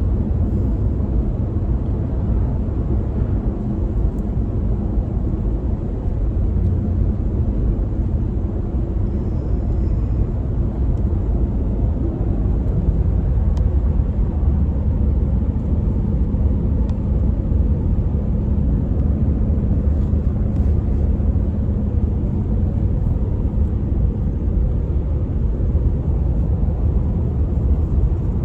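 Pickup truck being driven, heard from inside the cab: a steady low rumble of engine and road noise.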